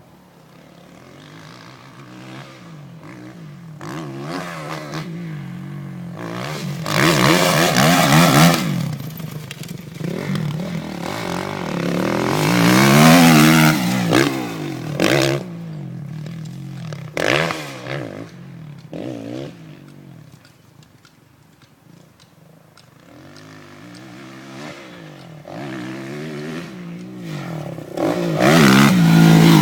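Kawasaki KX450F motocross bike's single-cylinder four-stroke engine revving up hard and backing off again and again as it is ridden around the track. The loudest surges come about seven seconds in, again around twelve to fourteen seconds, and near the end, with a quieter stretch in between.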